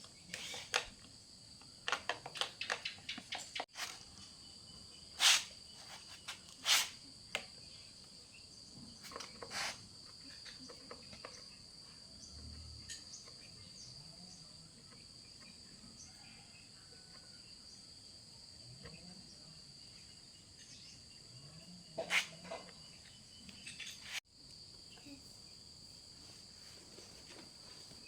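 Steady high-pitched chirring of insects, with scattered sharp clicks and knocks, several in the first ten seconds and a couple more about 22 seconds in.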